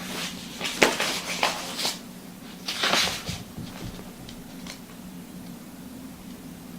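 Short rustles of handling, with a sharp click about a second in and a longer rustle near three seconds, over a steady low hum.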